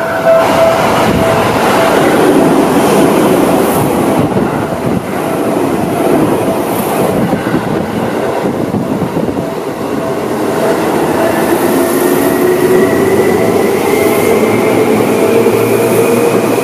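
Yellow Seibu electric commuter train passing at close range, a steady rush of wheel-on-rail noise. From about eleven seconds in, a slowly rising whine joins it as a train's traction motors pick up speed.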